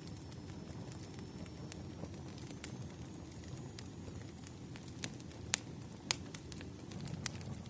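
Wood fire crackling: irregular sharp pops and snaps over a low steady rumble, with a couple of louder pops about five and six seconds in.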